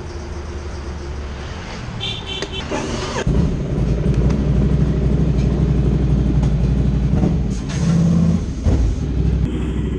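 Ducati Scrambler Icon's air-cooled L-twin idling, growing louder about three seconds in. A short run of high beeps about two seconds in.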